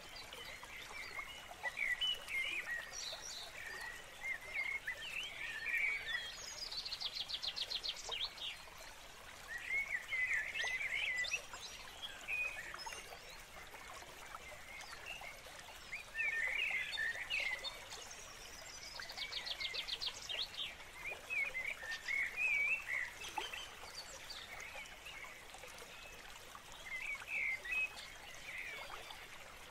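Birds singing: a run of short chirping, warbling phrases, with a fast buzzy trill that comes three times.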